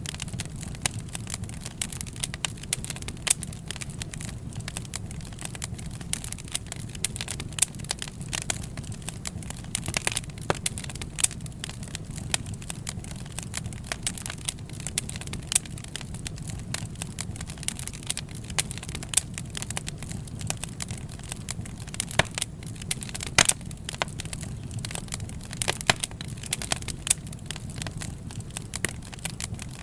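Wood fire burning, with constant irregular crackling and sharp pops over a steady low rumble of the flames.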